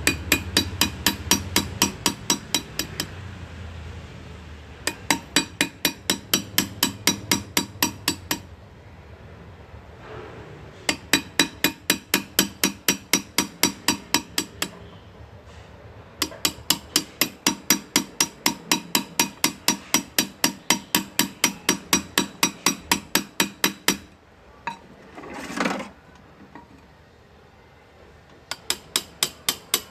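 Hand engraving: a small hammer tapping a steel graver into metal in quick runs of about five sharp strikes a second, with pauses of a second or two between runs. A brief scraping sound comes near the end.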